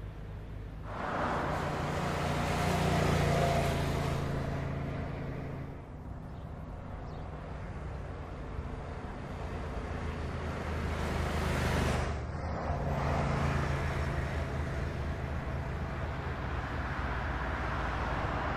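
Car engine running, its sound swelling and easing. About twelve seconds in it breaks off abruptly and picks up again, as at a cut between shots.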